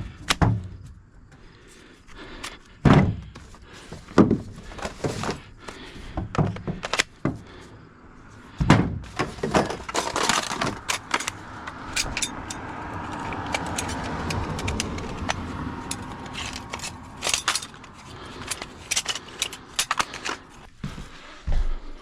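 Irregular knocks, thuds and clattering from hands-on cleanup and repair work in a room, with a longer stretch of steady rustling or scraping noise around the middle.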